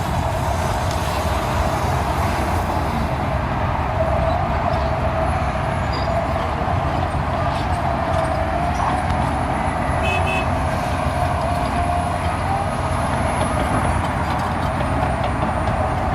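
Heavy diesel equipment at a dump-truck load-out, running steadily with a deep rumble and a wavering whine.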